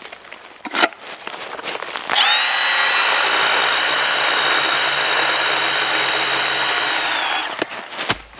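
Milwaukee Hatchet cordless pruning saw running steadily at full speed with a high whine for about five seconds. It spins up about two seconds in and winds down near the end. Before it starts there are a few light knocks.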